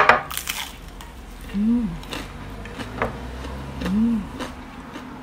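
A bite into crispy batter-fried eggplant: a loud crunch at the start with crackling, then chewing with a few crisp crunches and two short "mmm" hums of approval.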